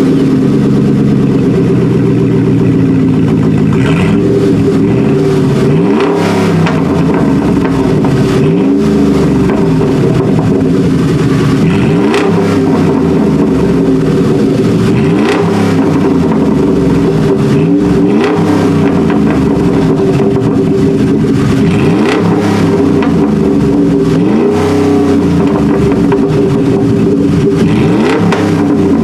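2012 Ford F-150's 5.0 L V8 idling and being revved about every three seconds, each rev climbing quickly and dropping back to idle.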